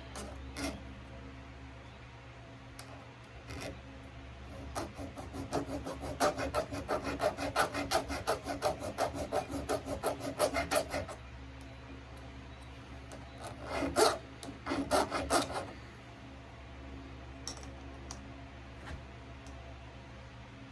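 A file rasping on the steel depth gauges (rakers) of a chainsaw chain, taking them down below the cutter teeth. A fast run of short strokes, about four a second, lasts several seconds, and a second, shorter run follows a couple of seconds later, over a faint steady hum.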